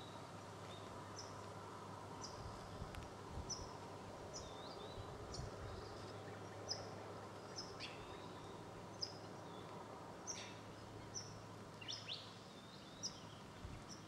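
A bird's short, high chirps, repeated irregularly about one or two times a second, some ending in a quick downward slur, over a faint steady low hum.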